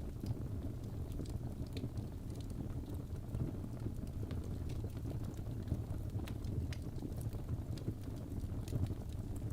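Birch logs burning in a fireplace: a steady low rush of flame with irregular sharp crackles and pops, about one or two a second.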